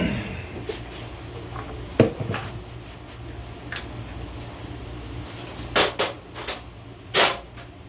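Scattered sharp clinks and knocks of hard objects being handled: one about two seconds in, then several close together near the end, over a low steady hum.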